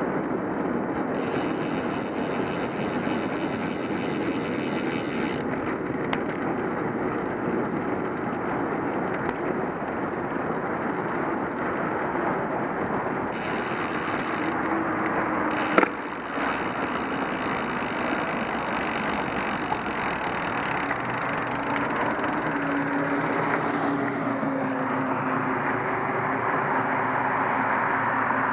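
Steady wind and road noise from riding a bicycle on a wet road, with a sharp knock about halfway through and a faint low hum wavering in the second half.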